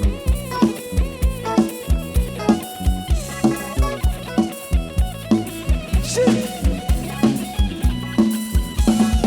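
Instrumental dance music from a rot hae sound-system truck band: a pounding kick drum on a steady beat, bass, and an electric guitar or keyboard melody, with no singing.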